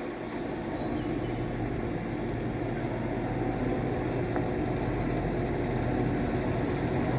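Scania R660 lorry's 16.4-litre V8 diesel engine running with a steady low note, growing gradually louder.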